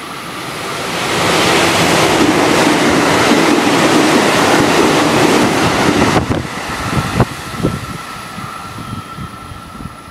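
Electric commuter train passing through the station at speed without stopping: a loud rush of wheel and air noise that builds over the first second or so, holds, then drops away sharply about six seconds in, leaving quieter knocks from the rails.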